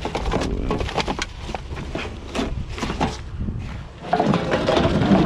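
Rummaging through trash and scrap: repeated knocks, clatter and rustling of items being handled, denser and louder about four seconds in.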